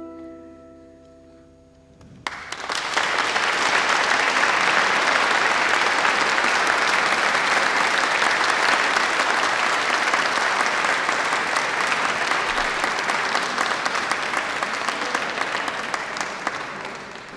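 The last held notes of a soprano saxophone and guitar fade away, then about two seconds in an audience breaks into applause that carries on steadily and dies down near the end.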